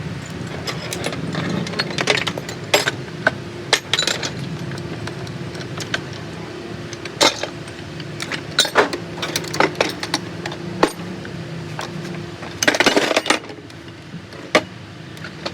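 Metal hand tools and loose metal parts clinking and tapping at irregular intervals, with a brief burst of rattling near the end, over a steady background hum.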